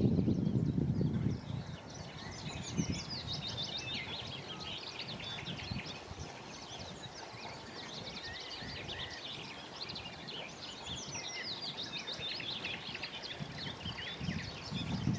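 Several wild songbirds singing and calling at once, a dense run of quick high chirps and trills. A low rumble sits under them, strongest in the first second or so and again near the end.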